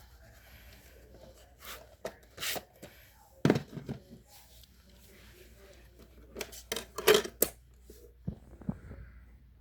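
Scattered clicks, knocks and rustles of objects being handled by hand in a small room, the loudest about a third of the way in and a cluster of them past the middle, over a low steady hum.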